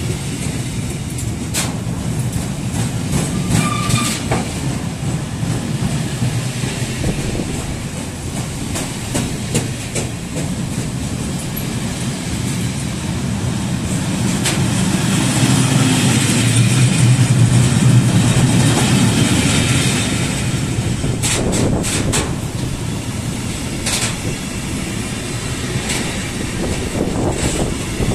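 Wagons of a long, heavy freight train rolling past: flat wagons loaded with steel beams, then tank wagons. A steady rolling noise from the wheels is broken by sharp clacks now and then, and it grows loudest a little past halfway.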